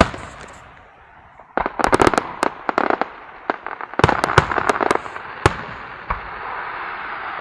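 Fireworks going off: two rapid clusters of sharp cracks and pops, about one and a half and four seconds in, over a crackling hiss that carries on steadily after the pops stop.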